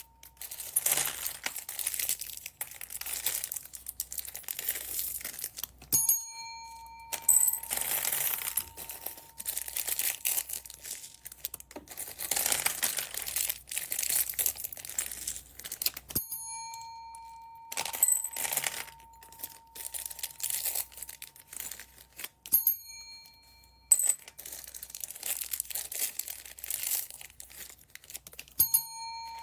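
Plastic packaging bags crinkling and rustling as they are handled and torn open. A short bell-like ding rings out four times, about 6, 16, 22 and 29 seconds in.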